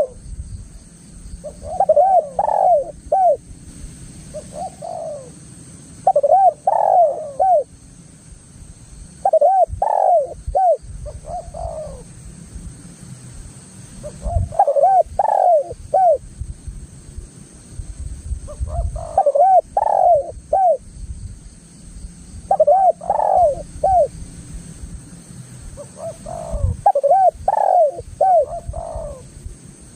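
Spotted doves (tekukur) cooing: phrases of several rising-and-falling coo notes repeated every few seconds, over a low rumble.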